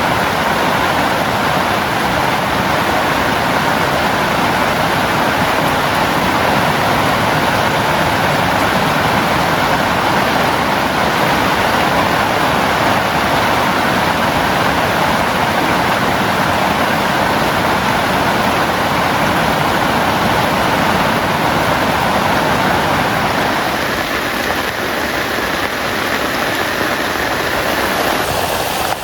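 Heavy rain falling steadily on a tent, a dense, even patter that eases slightly near the end.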